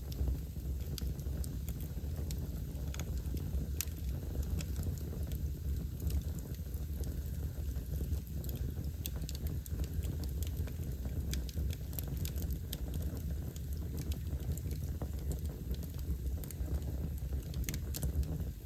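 Wood fire burning in a fireplace, crackling: frequent small, sharp, irregular pops over a steady low rumble.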